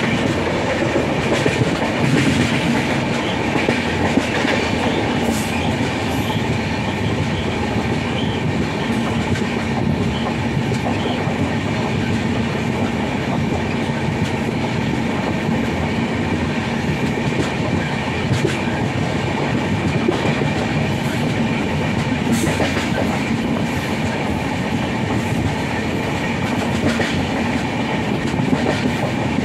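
Indian Railways train running at speed, heard from aboard a coach: a steady rumble and rush of wheels on rail, with the clickety-clack of rail joints and a few sharp clicks.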